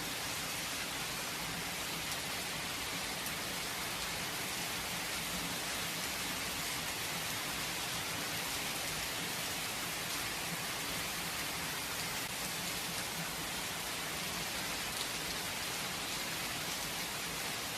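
Steady rain without thunder, an even hiss of falling rain with faint scattered drop ticks.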